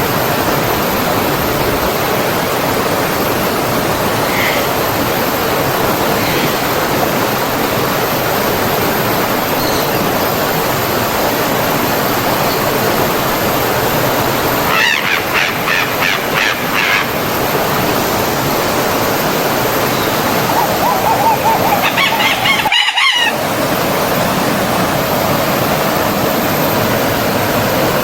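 Steady rush of a flowing stream, with birds calling twice over it: a quick run of repeated notes about halfway through, and another series of calls near the end. The sound cuts out for a moment just before the second series finishes.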